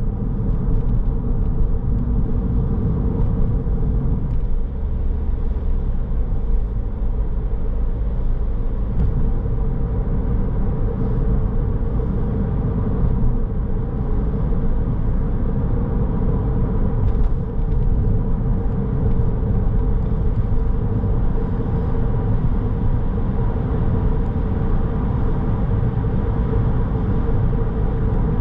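Car driving steadily, with a continuous low rumble of road and engine noise and a faint steady hum.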